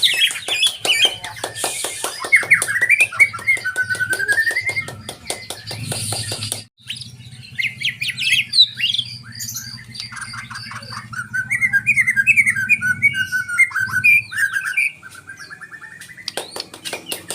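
White-rumped shama (murai batu) singing loudly in a long, unbroken run of varied whistled phrases, the continuous 'ngerulung' song prized by bird keepers. A fast train of dry clicking notes runs under the first few seconds. The song stops abruptly about six and a half seconds in, then resumes with rising and falling whistles.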